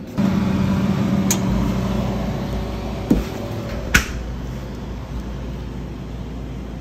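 Steady engine and road hum inside a moving car, with a few sharp clicks, the last one, about four seconds in, the loudest.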